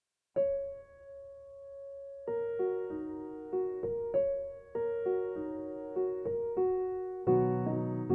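Background piano music: a single held note, then a gentle melody of struck notes that fills out with lower notes near the end.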